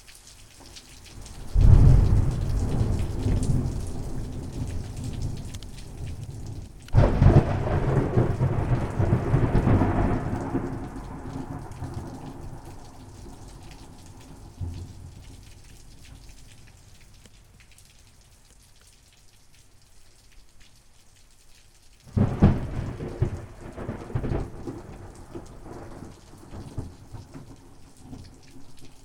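Thunderstorm: three rolls of thunder, a rumble about a second and a half in, a sharper crack about seven seconds in, and another near the end, each dying away slowly over steady rain.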